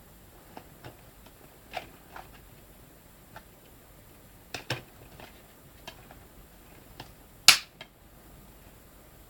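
Scattered clicks and taps of a DVD box set's plastic cases and packaging being handled, the loudest a sharp click about seven and a half seconds in.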